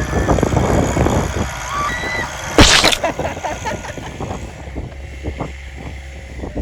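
Tractor engine running with a low, steady rumble while towing a sledge through snow. A few short high-pitched calls come in the first two seconds, and a sudden loud rush of noise comes about two and a half seconds in.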